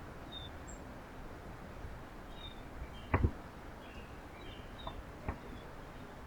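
Faint, short bird chirps over steady outdoor background noise, with two sharp knocks, the louder one about three seconds in.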